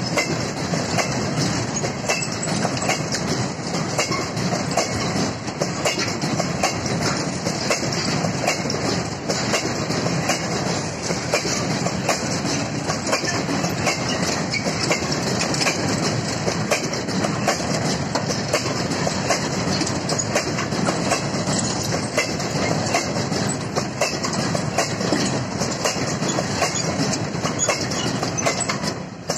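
Long freight train of covered wagons rolling past close by: a steady rumble with dense clatter of wheels over the rail joints. The sound drops away sharply near the end as the last wagon goes by.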